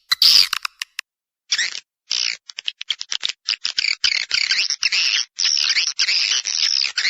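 Recorded swiftlet calls: rapid high chirps and twitters, a short burst near the start, a brief pause, then dense, nearly unbroken twittering. It is a swiftlet lure call, the kind played from swiftlet houses to draw the birds in to roost and nest.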